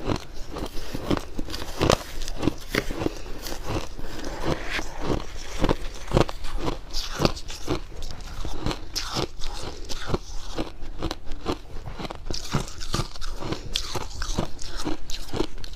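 Close-miked crunching of fluffy freezer frost being bitten and chewed, a quick irregular run of dry crunches several times a second.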